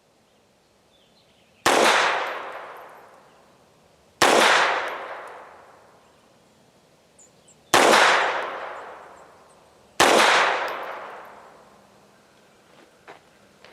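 Four shots from a FEG AP-MBP pistol in .32 ACP (7.65 mm), fired a few seconds apart, each ringing out into a long echo that dies away over about two seconds.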